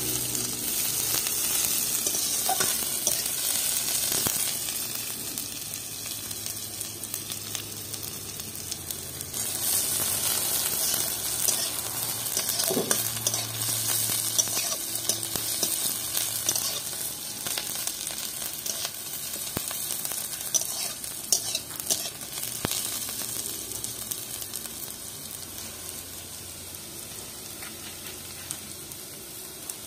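Sliced onions and whole spices sizzling in hot oil in a kadhai, with a metal spatula scraping and clicking against the pan as they are stirred. The sizzle eases somewhat in the second half.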